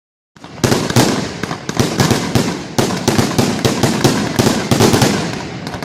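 Fireworks going off in a rapid, irregular string of loud bangs and crackles, several a second, starting a moment in.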